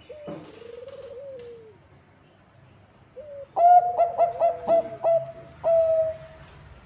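Bangkok-strain zebra dove (perkutut) cooing: a soft call at the start, then about halfway through a loud phrase of quick ringing notes that ends in one longer held note.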